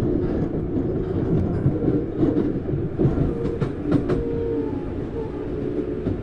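Running noise heard inside a Tokyu Series 9000 electric train's motor car: steady wheel-on-rail rumble with steady motor tones, and a series of sharp clicks between about two and four seconds in as the wheels cross rail joints.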